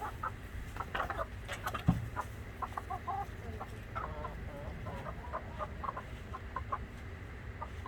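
Chickens clucking, many short calls one after another, with a single thump about two seconds in.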